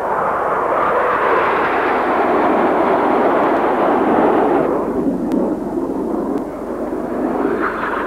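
Formation of BAE Hawk T1 jet trainers making a close fly-past, their jet noise building to a peak about four seconds in, then the higher part cutting away suddenly as they pass, leaving a lower rush.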